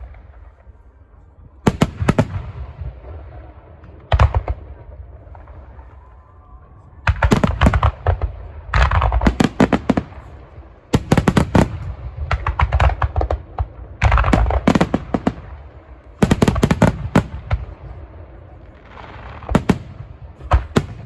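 Aerial fireworks shells bursting in repeated volleys of sharp bangs, a cluster of rapid reports every two to three seconds, with a low rumble between them.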